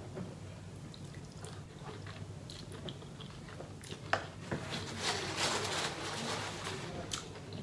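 Close-miked eating: a person biting and chewing sauce-dipped seafood from a seafood boil, with scattered small clicks and wet mouth sounds, the chewing getting louder about two-thirds of the way through.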